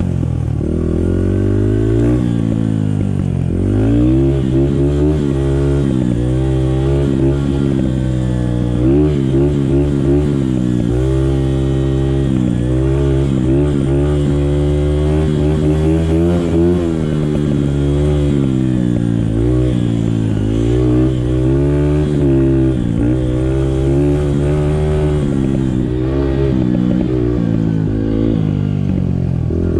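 Small Honda 50cc dirt bike engine running under way, its pitch rising and falling over and over as the throttle is opened and eased.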